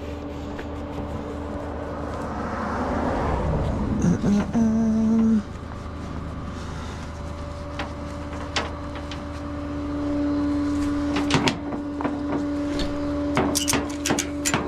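Steady mechanical hum of an idling tow truck, with a short loud pitched blare about four and a half seconds in, then a run of sharp metallic clicks and knocks near the end, as tie-down gear is worked on the flatbed.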